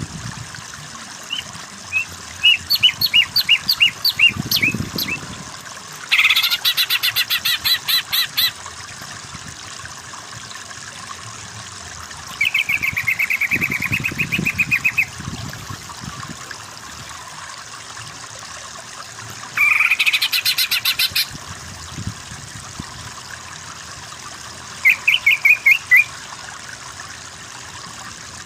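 Songbird singing in five separate bursts of rapid chattering notes and fast trills, over a steady background of trickling water.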